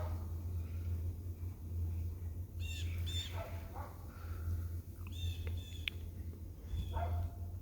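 Pet birds giving short squawking calls: a few about three seconds in, more around five to six seconds in, and another near the end, over a steady low hum.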